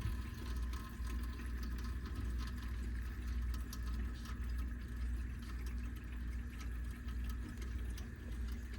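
Steady low hum with faint high tones and scattered light ticks and clicks.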